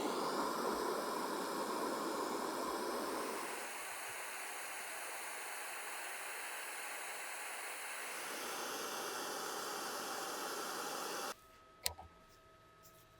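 A steady, loud hiss that dips and swells in level and cuts off suddenly about eleven seconds in, followed by a couple of sharp clicks.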